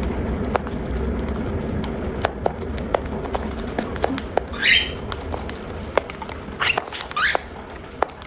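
Cockatiels feeding, with many small sharp clicks of beaks pecking at food, and three short chirps that fall in pitch, one about halfway through and two near the end.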